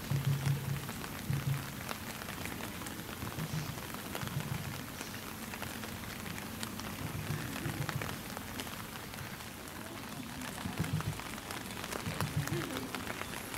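Light rain falling steadily: an even hiss dotted with many small drop ticks. A low rumble comes and goes underneath it, strongest near the start and again near the end.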